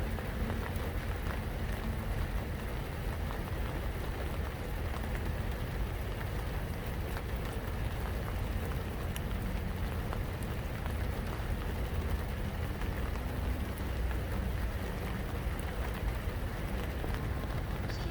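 Steady rain falling, with scattered faint drop ticks over a constant low rumble.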